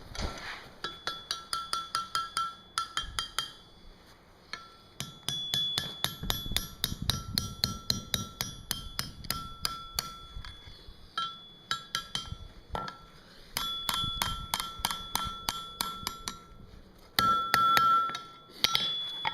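Hand hammer striking a steel scroll bar on an anvil in quick runs of blows, about four or five a second, with short pauses between runs. Each blow rings at a clear pitch, and the loudest ringing comes near the end. This is the scroll being tightened into its final shape.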